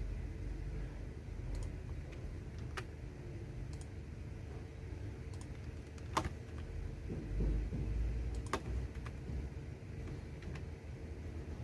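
Computer keyboard keys pressed in scattered single strokes, a sharp click every second or two with the loudest a little past the middle, over a steady low rumble and a faint steady hum.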